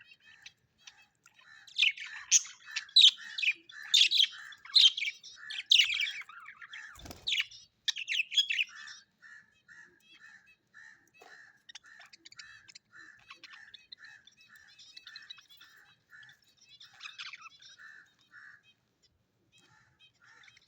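Birds calling: a burst of loud, sharp chirps and squawks in the first half, then a quieter run of short, evenly repeated notes, about two a second.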